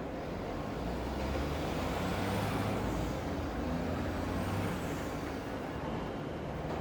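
Low rumble of a heavy vehicle passing, swelling from about half a second in and fading after about five seconds, over a steady hiss of rain and city ambience. Faint high whines rise and fall twice in the middle.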